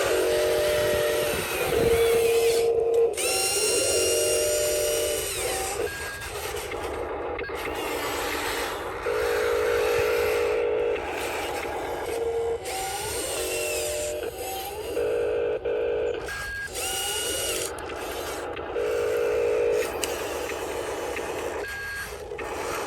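Small electric motors and gearboxes of radio-controlled construction models whining in short on-off bursts, some rising in pitch as they spin up, with abrupt stops and changes throughout.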